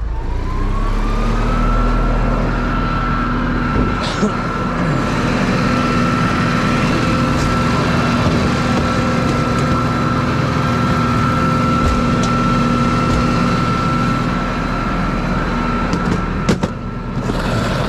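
Tow truck's engine raised to high idle to drive the hydraulics while unloading a car, a steady whine that rises in pitch over the first two seconds and then holds. A few clicks near the end.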